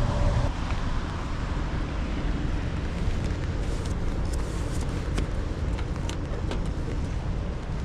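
Heavy rain and wind with a steady low rumble and scattered sharp ticks of drops striking.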